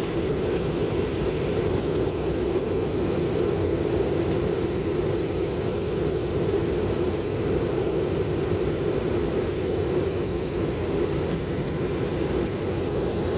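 Steady drone of a plane's engines and rushing air, heard inside the passenger cabin, with an even hum and no change in pitch or level.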